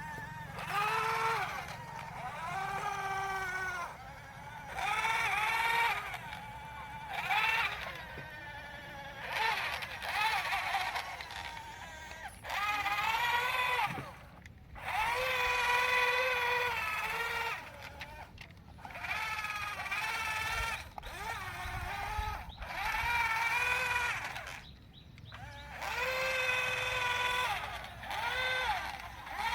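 A high-pitched voice in long, wavering held notes, each a second or two, with short breaks between.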